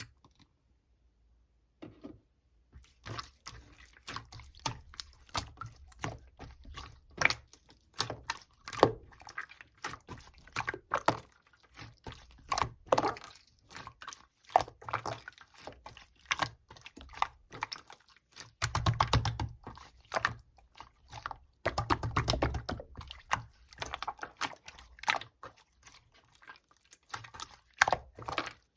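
Purple pearl slime being squished and played with by hand: a dense, irregular run of sticky wet clicks and squelches, starting about two seconds in.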